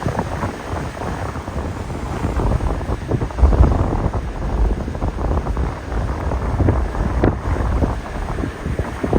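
Hurricane wind buffeting the microphone in gusts, with a heavy rumble; the strongest gust comes about three and a half seconds in. Storm surf breaks underneath.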